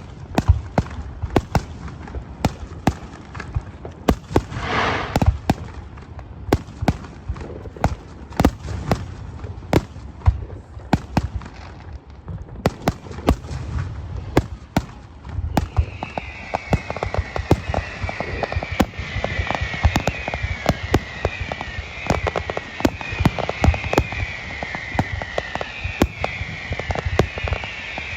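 Fireworks display: a dense, irregular string of bangs and pops. About halfway through, a high falling whistle starts repeating roughly once a second and keeps going.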